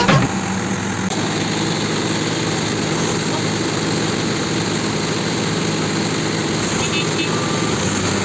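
Mahindra tractor's diesel engine running steadily, after a burst of music cuts off just at the start.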